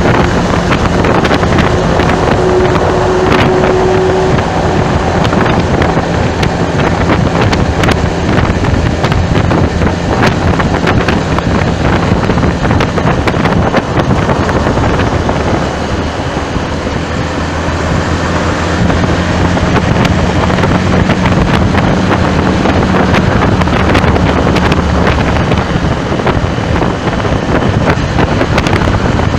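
Loud wind rushing over the microphone, with traffic and a vehicle engine's steady hum underneath.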